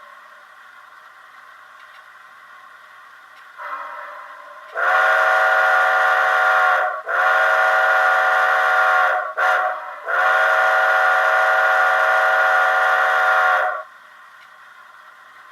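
Model steam locomotive's sound-decoder whistle played through a small cell-phone speaker. A soft opening note leads into four chime blasts, long, long, short, long, the grade-crossing signal. Each blast sags in pitch as it cuts off. A faint steady background runs before the blasts.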